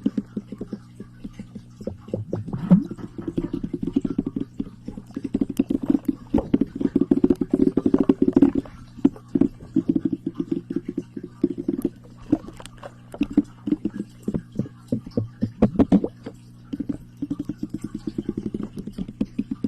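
Close-miked ASMR trigger sounds: rapid clicks and taps in quick flurries, over a steady low hum.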